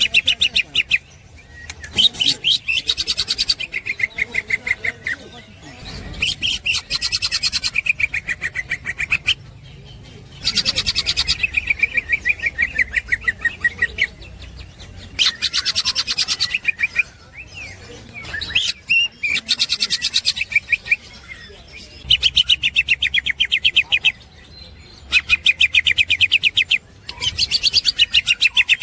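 Green leafbird (cucak hijau) singing in 'ngekek' style: bouts of very fast repeated chattering notes, each lasting two to four seconds, broken by short pauses.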